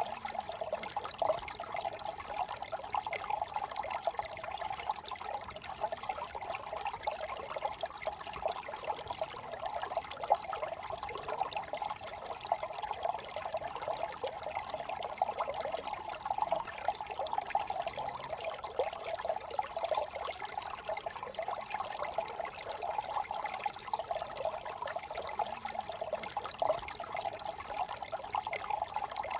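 Brook water trickling and gurgling steadily, an even, unbroken run of small splashes.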